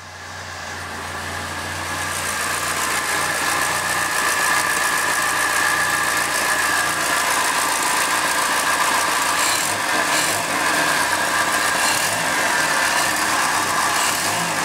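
A freshly fitted second-hand Triumph Dolomite 1300 four-cylinder engine idling steadily while it runs up to temperature soon after its first start. It grows louder over the first couple of seconds, then holds steady.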